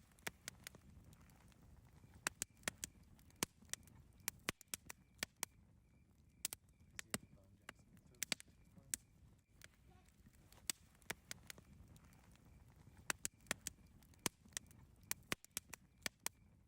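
Campfire crackling: sharp, irregular pops and snaps, sometimes several in quick succession, over a faint low rumble.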